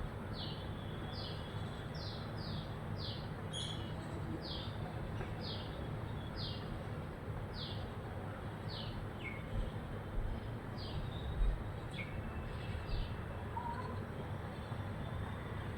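House sparrow chirping: a series of short, high, downward-sliding cheeps, roughly one or two a second with irregular gaps, which die out near the end. Under them is a steady low background rumble.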